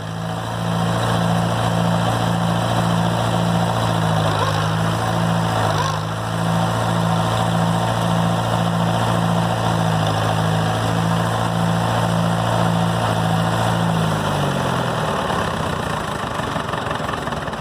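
Tractor engine running steadily with a regular pulsing, as the stuck tractor tries to drive itself out on wood chained to its wheels. About fourteen seconds in, its pitch falls as it is throttled back, and it fades.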